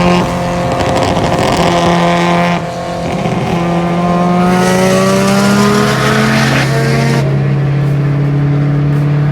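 Car engine under hard acceleration. Its note holds, breaks off about two and a half seconds in as if at a gear change, climbs steadily in pitch, then drops back to a steady lower drone about seven seconds in.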